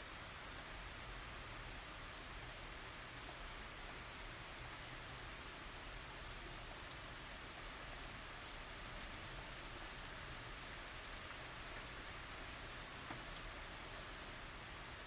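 Steady tropical rain falling on surfaces: an even hiss with many fine drop ticks, no thunder.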